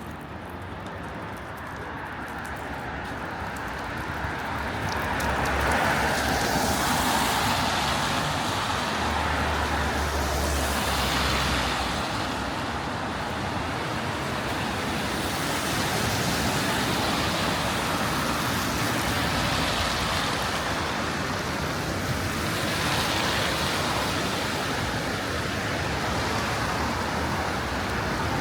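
Road traffic passing on a wet street, the tyre hiss swelling and fading as several vehicles go by, louder after the first few seconds.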